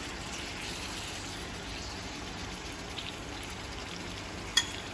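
Yogurt-marinated chicken strips sizzling in oil in a non-stick frying pan, a steady hiss, with a single sharp click near the end.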